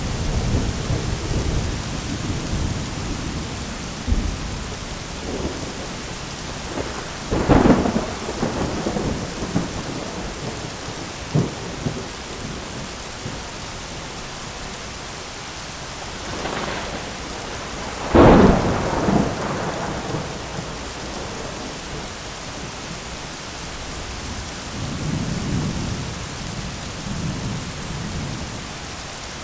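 Thunderstorm: steady heavy rain hiss with rolling thunder, two sharp loud cracks about a quarter and again about two-thirds of the way through, and lower rumbles at the start and near the end.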